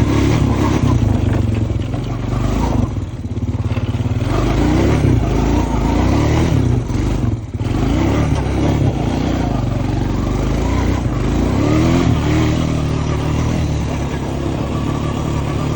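Honda Foreman ES ATV's single-cylinder engine pulling as it is ridden, revving up and down with the throttle, with brief let-offs about three and seven and a half seconds in.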